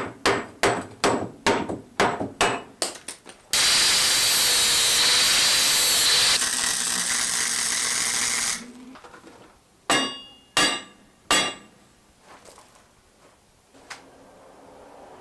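Rapid hammer blows on metal, about three a second, then a power tool runs steadily for about five seconds, followed by three ringing clanks of struck metal on the mini bike frame's tubing.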